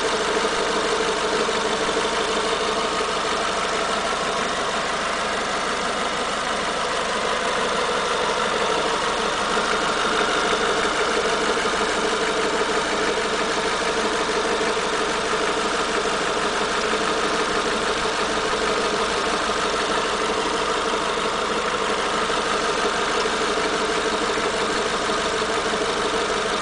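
Renault Mégane TCe 180's 2.0 turbo petrol engine idling steadily, with an engine noise that new valve tappets have not cured.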